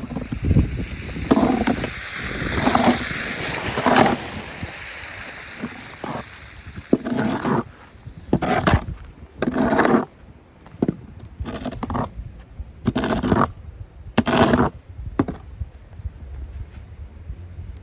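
Snow shovel scraping through snow on pavement in repeated strokes, one every second or so, with a short pause partway through.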